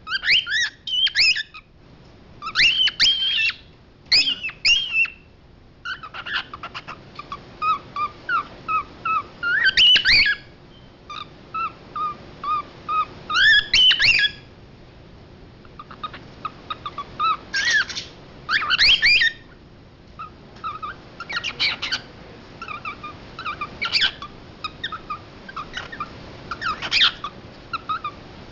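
Male cockatiel chirping and calling: runs of short, quick chirps broken every few seconds by loud, sweeping whistled calls.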